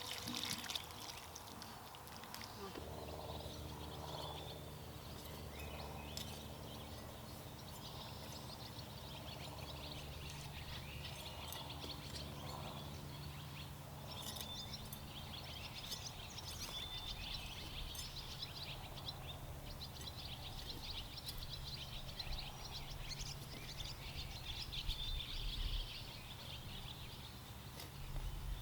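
Small birds chirping outdoors in many short calls, over a steady low hum that comes in about three seconds in.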